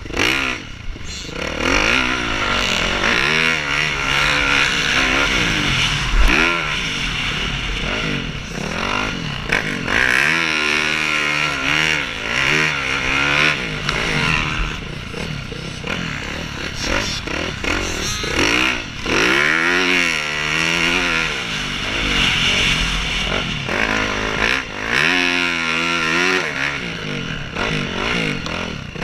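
Motocross bikes racing, their engines revving up and falling back again and again as they throttle through the track, several engines overlapping.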